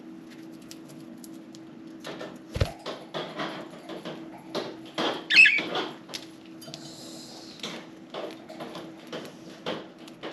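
Budgies pecking and cracking millet seeds: a scatter of small clicks and taps, with a short, loud chirp about five seconds in. A steady low hum runs underneath.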